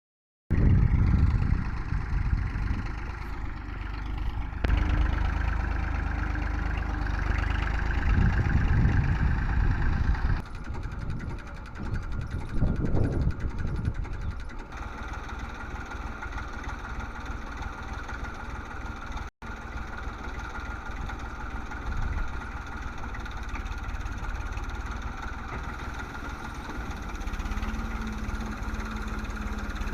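Tractor engine running while pulling a loaded trolley. The sound changes abruptly several times, as if separate takes were joined.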